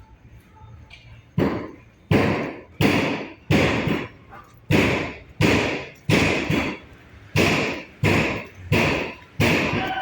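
A steady rhythm of loud knocks, about three every two seconds, starting about a second and a half in: the stroke-keeping beat of a Cambodian longboat racing crew.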